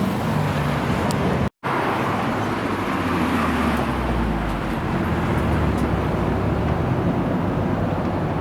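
Car engines running amid general traffic noise, with a low rumble that swells for a few seconds in the middle. The sound cuts out completely for a moment about one and a half seconds in.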